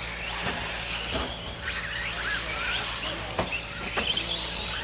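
Radio-controlled 1/10-scale short course trucks racing: several high motor whines rising and falling in pitch with the throttle, with a few sharp clicks.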